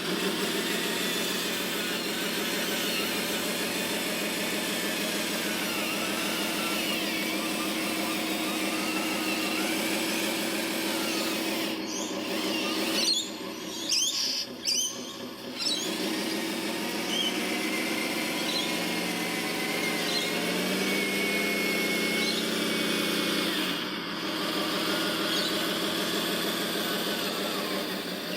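Small electric motors and gearing of radio-controlled construction models whining. The pitch shifts up and down as they work, with a short break about halfway through.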